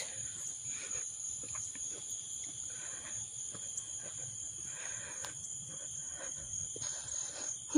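Steady chorus of insects buzzing at a high pitch, several even tones held without a break.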